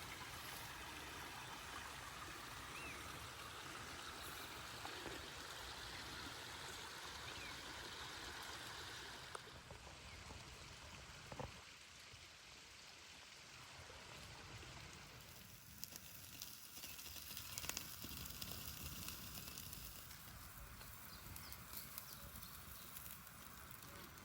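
Forest outdoor ambience: a steady rushing noise for about the first nine seconds, then quieter, with scattered clicks and knocks over a low rumble of wind on the microphone.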